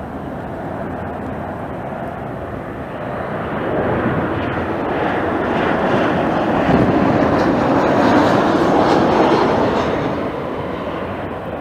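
Jet airliner passing close by, its engine noise swelling over a few seconds to a peak and then fading, with wind buffeting the microphone.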